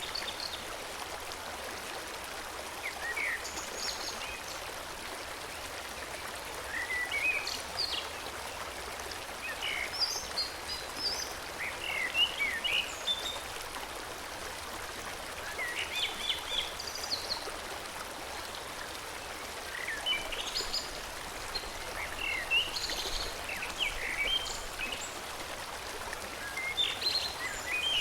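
Steady rush of a forest stream flowing, with short bursts of high chirping birdsong repeating every few seconds over it.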